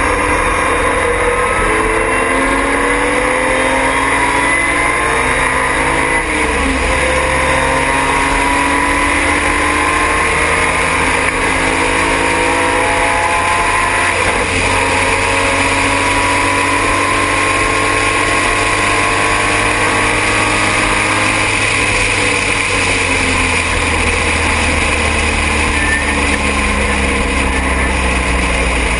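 Triumph TR6 straight-six race engine at racing speed, heard from inside the car. Its pitch climbs, drops back and climbs again many times as the car accelerates and shifts or lifts through the lap. A steady rush of wind and road noise runs under it.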